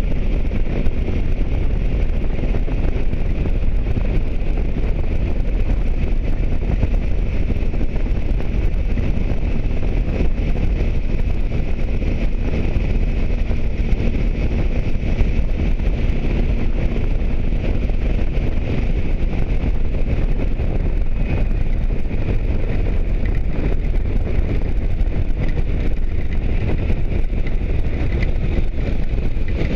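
Wind buffeting the microphone over a motorcycle running steadily at road speed.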